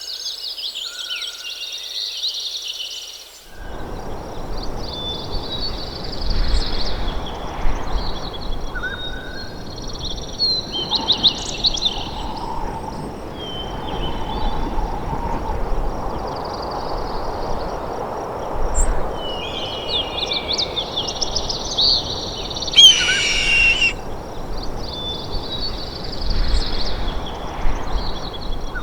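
Several birds chirping and singing in short trills. About three and a half seconds in, a steady rushing noise starts abruptly beneath them. The loudest moment is a short burst of sweeping calls near the end.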